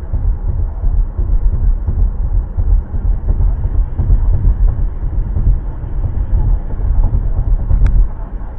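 Car driving: a steady, loud low rumble of engine and road noise, with a single sharp click near the end.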